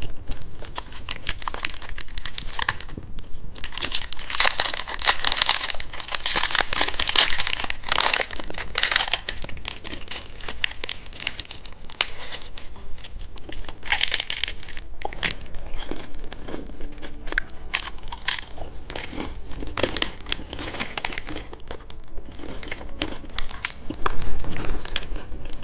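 Plastic candy wrappers crinkling and tearing as sweets are unwrapped, with many irregular crackles that are thickest a few seconds in.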